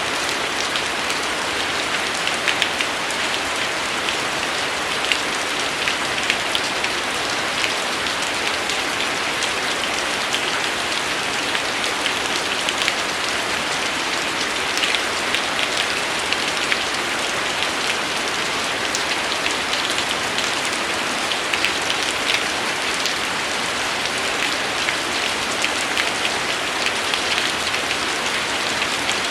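Steady rain falling: an even hiss with many single drops ticking sharply through it.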